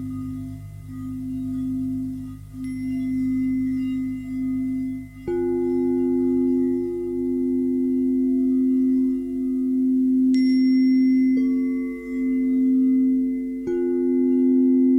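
Singing bowls ringing in a layered, sustained drone, the low bowl tone pulsing slowly as it beats. Further bowls are struck about five seconds in, again around eleven seconds and near the end, each adding a new tone, and a high, bright chime-like ring joins about ten seconds in.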